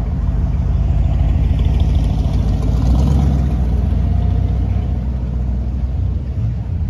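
A car engine running close by with a low, steady rumble, a little louder around the middle.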